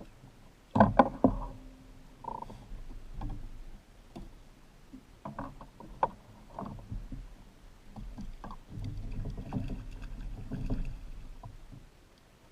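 Irregular knocks and clatter on a Hobie Pro Angler fishing kayak, as gear is handled aboard, with a loud cluster of knocks about a second in and scattered knocks after.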